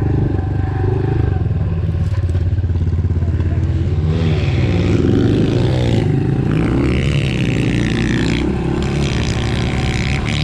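Pit bike engine running steadily, with its pitch rising and falling a few times around the middle as it revs up and eases off.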